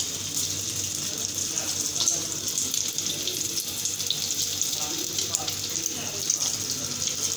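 Egg-coated potato tikkis frying in oil on a flat tawa griddle: a steady sizzle with small crackles.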